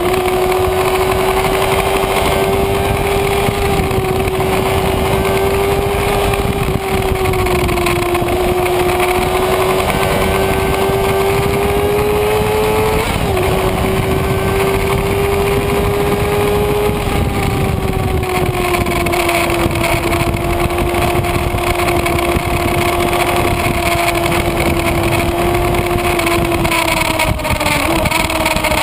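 Kawasaki Ninja ZX-6R inline-four engine running hard at high revs, its pitch drifting gently up and down. There is a brief dip about halfway through and a step down near the end, over a steady rush of wind noise.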